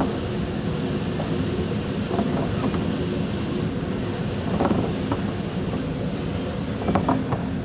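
Boat engine running steadily at sea, with wind on the microphone and a few short sharp sounds over it about halfway through and near the end.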